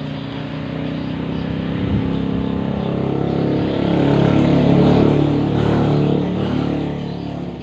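A motor engine running steadily, growing louder to a peak about five seconds in and then easing off.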